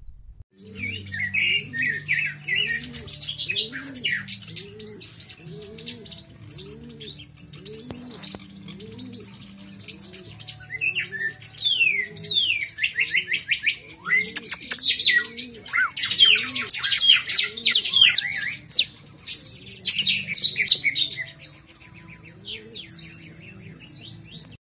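Small songbirds chirping and twittering in quick high runs and trills, with a lower sound repeating about twice a second beneath them.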